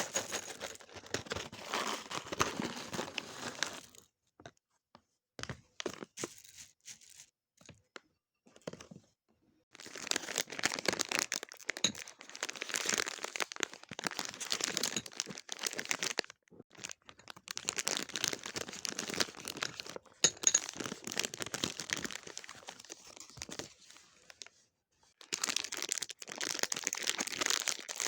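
Plastic snack wrappers crinkling and tearing as packaging is handled and opened, in stretches of several seconds. A quieter spell after about four seconds holds only a few scattered clicks before the crinkling picks up again.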